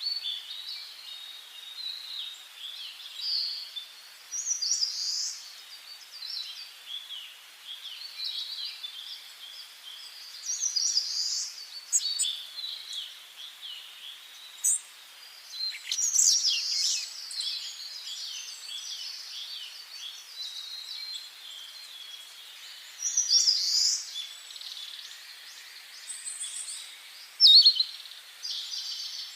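Several songbirds singing together in a forest dawn-chorus style, short whistled and trilled phrases overlapping one after another. A few sharper, louder phrases stand out, the loudest near the end.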